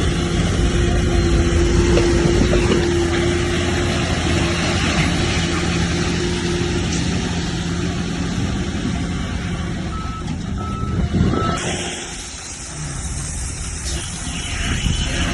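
Heavy diesel earthmoving machinery running steadily, with three short reverse-alarm beeps about two-thirds of the way through.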